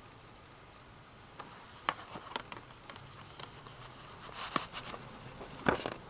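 Light clicks, taps and brief rustles of a CD album's case and paper inserts being handled, starting about a second in and growing busier near the end.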